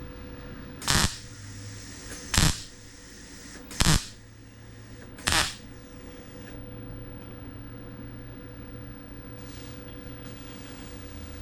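MIG welder laying four short tack welds on thin car-body sheet steel, each a brief crackling burst, about one and a half seconds apart.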